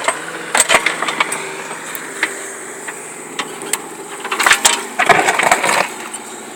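An engine running steadily, with several sharp knocks and a gritty scraping crunch about five seconds in.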